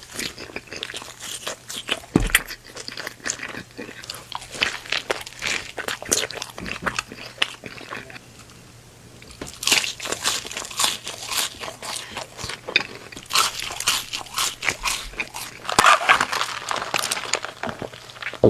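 Close-miked biting and chewing of a Taco Bell triple double Crunchwrap: a dense run of crisp, irregular crunches that pauses briefly about halfway through, then resumes.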